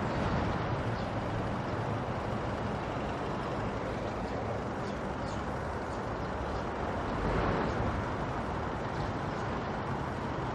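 Steady din of road traffic, with a louder swell about seven seconds in, like a vehicle passing close.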